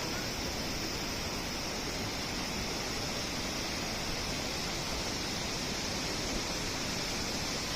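Steady rushing roar of a large waterfall, Kegon Falls, even and unbroken.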